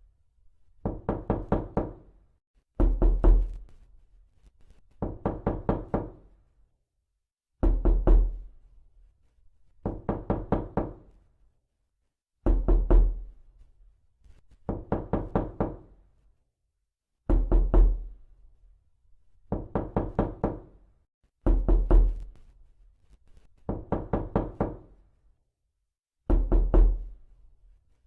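Repeated knocking: bursts of about five quick raps, each burst followed by a second one after a short pause, the pattern repeating about every five seconds with silence between.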